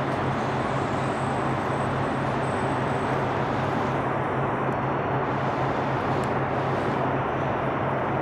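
Steady road traffic noise: an even rush of tyres and engines with a constant low hum underneath.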